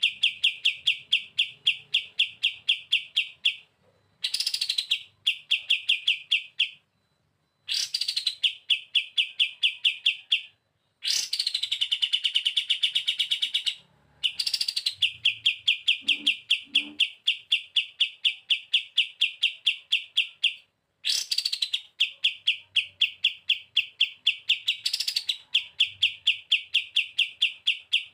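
Kapas tembak bulbul (a cage bird) singing its long, fast 'bren' trill again and again. Each phrase opens with a quick rising note, then runs as a rapid even rattle of high notes for two to five seconds, with short pauses between phrases.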